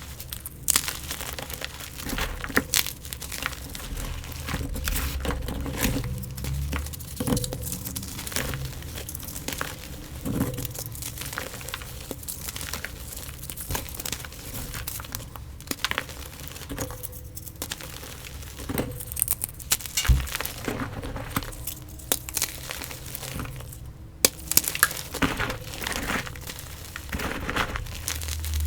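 Gym chalk blocks being crushed and crumbled, a steady run of crisp crunches and sharp crackles with several louder snaps in the latter half.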